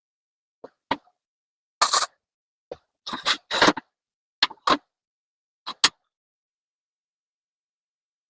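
Flux-core welder arc crackling in a series of short bursts, tack welds on thin 16-gauge aluminized steel exhaust pipe. There are about nine bursts, each under a second, with silence between them, and none in the last two seconds.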